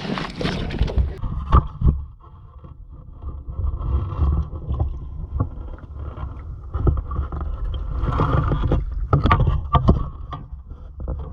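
Wind-driven water lapping and slapping against the hull of a small fishing boat, with wind rumbling on the microphone and a few sharp knocks.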